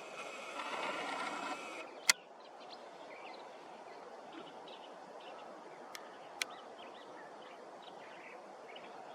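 Faint outdoor ambience with scattered short bird calls. A steady drone with several held tones sounds for the first two seconds, and sharp clicks come about two seconds in and twice more around six seconds.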